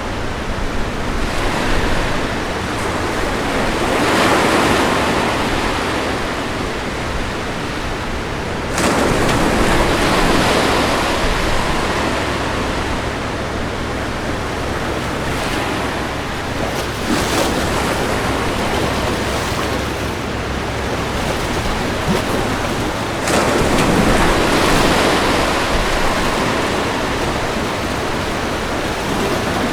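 Ocean waves breaking and washing on a beach, a continuous rush of surf that swells several times, one wave coming in suddenly about nine seconds in.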